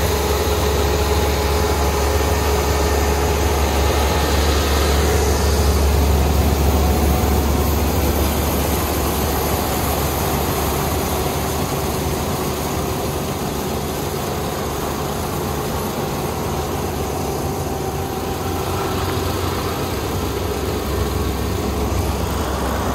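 Combine harvester's engine running steadily, with a deep low drone and a faint steady whine above it.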